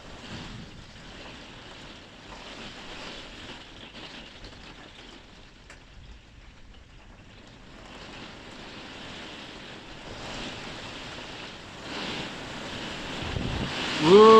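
Storm wind gusting and rain falling around a caravan: a steady rushing noise that eases off mid-way, then builds from about ten seconds in and is loudest near the end. A man's whooping 'woo!' begins right at the end.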